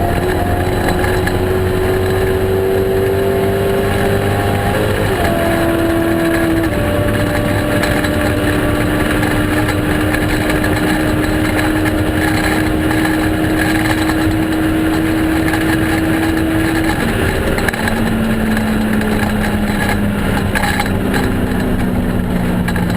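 Turbocharged Ford SVT Lightning 5.4-litre V8 pulling hard at high speed, its pitch climbing slowly and stepping down sharply about five seconds in and again near seven seconds. It then holds a steady note until about seventeen seconds in, when the pitch drops and sinks gradually as the engine comes off the throttle and the truck slows.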